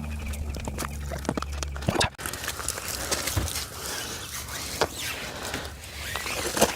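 Wheel-cleaning brush scrubbing a wet wheel: an irregular scratchy swishing of bristles with small clicks. A low steady hum runs underneath and stops about two seconds in.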